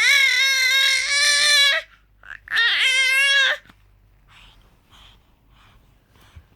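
Infant crying: two long, high-pitched wailing cries, the second shorter and wavering in pitch, followed by quiet for the rest.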